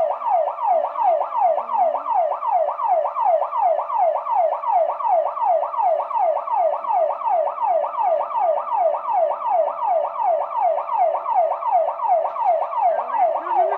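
Car alarm sounding: a loud tone sweeping down over and over, about three sweeps a second, without a break.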